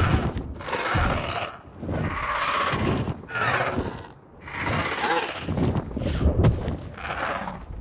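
Horse calls: a series of loud, noisy calls, each about a second long, with short pauses between them.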